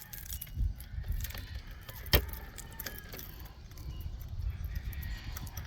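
Metal clinks and knocks of chainsaw parts being handled (the bar, chain and side cover), with one sharp click about two seconds in, over a low rumble.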